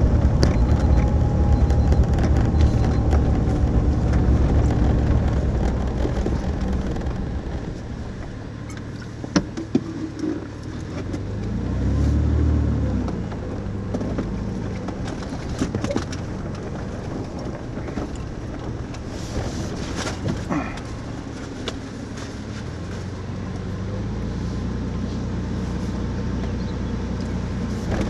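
A motor vehicle running: a steady low engine rumble that eases off about eight seconds in, swells briefly near the middle and rises again near the end, with a few scattered clicks.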